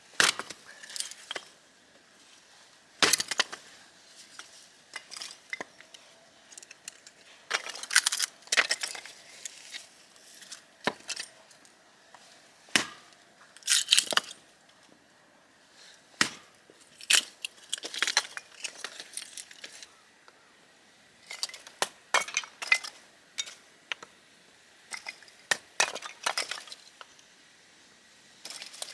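Irregular sharp snaps, knocks and clinks of hard objects being handled, some loud and some faint.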